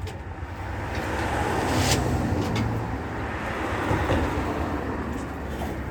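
A vehicle engine running with a steady low hum that swells briefly about two seconds in.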